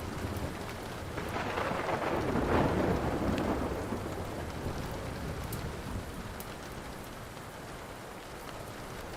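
Steady rain with a roll of thunder that swells about a second in and dies away by about four seconds, over the scattered small crackles of a burning wood fire.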